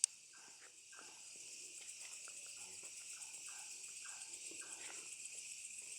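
Faint, steady chorus of night insects chirring, with one sharp click right at the start.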